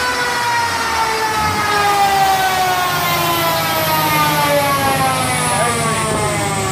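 Twin-turbo RB26/30 engine of an R32 GTR on a dyno, its revs falling slowly and steadily as the car winds down after a pull, with a high whine also dropping in pitch.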